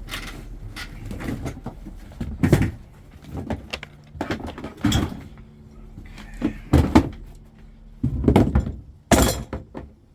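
Irregular knocks and clunks of hard objects being handled, about a dozen in all, the loudest falling in the second half.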